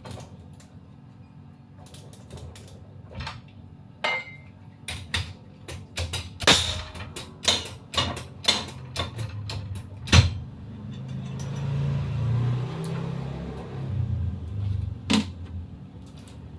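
A quick series of sharp knocks and clinks of metal engine parts and tools being handled, then a low rumble for a few seconds and one more knock near the end.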